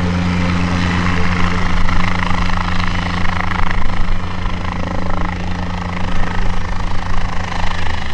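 Guimbal Cabri G2 light helicopter running steadily, the fast beat of its rotor over the hum of its Lycoming O-360 piston engine.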